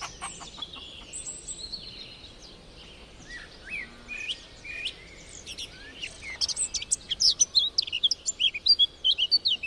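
Songbirds chirping and singing, with quick high calls that grow denser and louder over the last few seconds.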